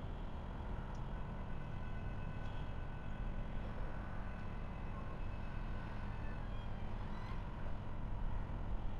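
Train rolling past a trackside webcam: a steady low rumble, with faint thin high-pitched tones through the middle.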